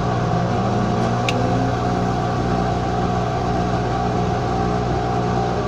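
Washing machine motor running steadily with a humming drone, its pitch rising over the first couple of seconds as the drum speeds up into the spin cycle. A single sharp click comes about a second in.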